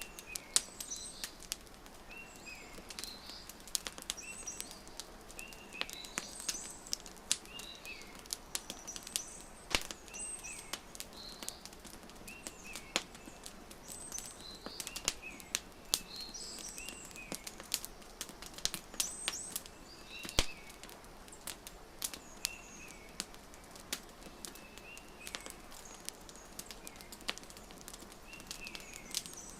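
Wood fire crackling, with sharp irregular pops, while birds chirp over and over in short calls.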